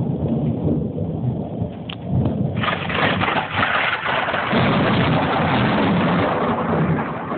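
Thunder rumbling in a thunderstorm with rain. About two and a half seconds in, the sound turns harsher and fuller and stays that way.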